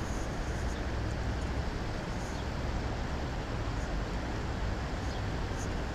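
Steady outdoor rushing noise, heaviest in the low rumble, with no distinct events.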